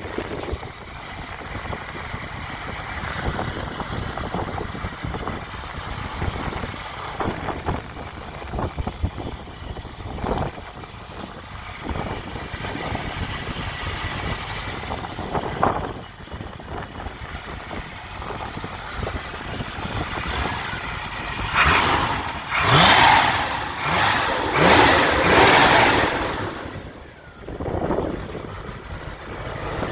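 Ford 289 small-block V8 in a Land Rover Series 3 running, with the throttle blipped into a few loud revs past the middle before settling back.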